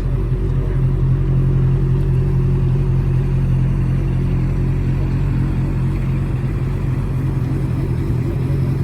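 A vehicle engine idling, a steady low hum that doesn't change.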